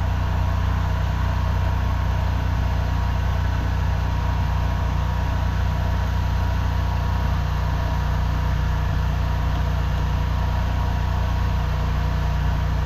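An engine idling steadily: a constant low hum with a thin steady whine above it.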